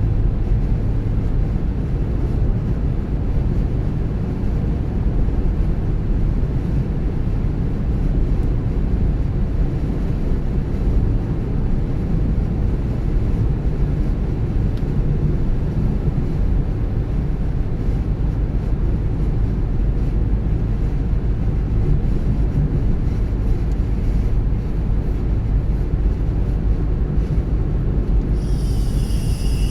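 A car's steady low rumble of engine and tyre noise while driving along the road. Near the end comes a brief high tone with several pitches stacked together.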